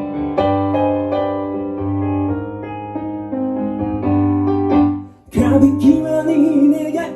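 Piano playing the introduction of the song, sustained chords with a melody over them. About five seconds in it drops out briefly, then comes back louder and fuller.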